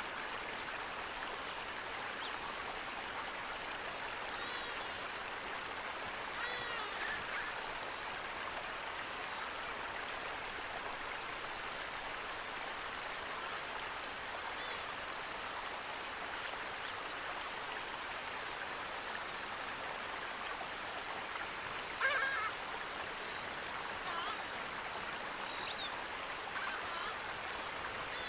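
Steady rush of flowing water, as from a stream or small waterfall, with a few short bird calls over it; the loudest call comes about twenty-two seconds in.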